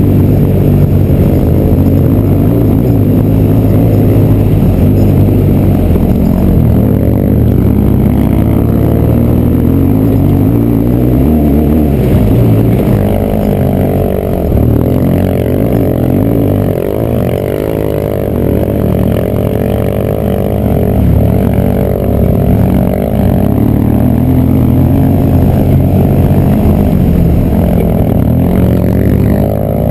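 Motorcycle engine running under changing throttle while riding a dirt trail, its pitch rising and falling, easing off briefly about halfway through.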